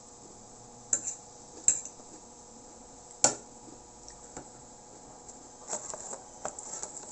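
Eating utensil clinking against a dish or bowl of salad: a few sharp separate clicks, the loudest a little past three seconds in, then a quicker run of small clicks and crunches near the end.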